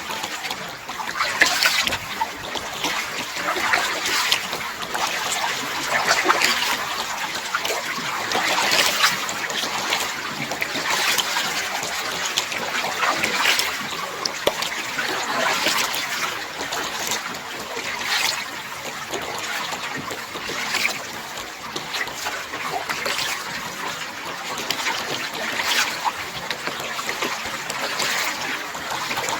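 Kayak paddle strokes on calm water: a splash with trickling drips about every two seconds, in an even rhythm.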